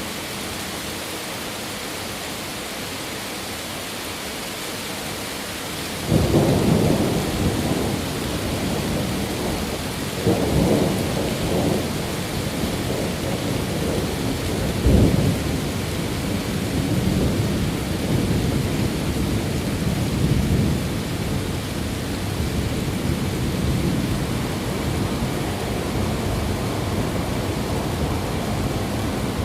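Steady rain hiss, then about six seconds in thunder breaks out suddenly into a long, rolling rumble. A sharper crack comes about halfway through, and the rumble carries on under the rain.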